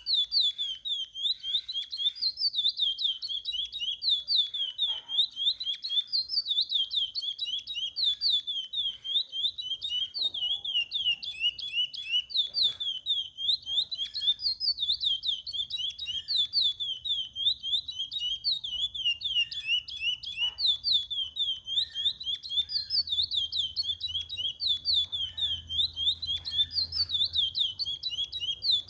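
Chestnut-bellied seed finch (curió) singing a long, unbroken run of quick whistled notes that slide up and down. This is a tutor song played to teach young birds to sing.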